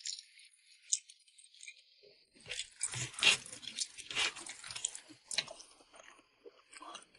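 Close-miked chewing and biting of food: a few faint mouth clicks, then a dense run of crunchy, wet chewing sounds from about two and a half seconds in, easing off after about five and a half seconds.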